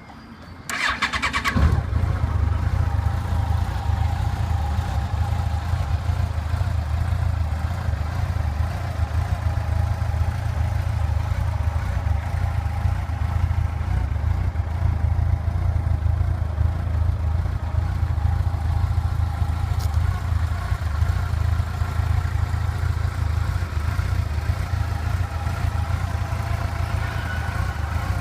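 Yamaha FJR 1300's inline-four engine starting about a second and a half in, then idling steadily.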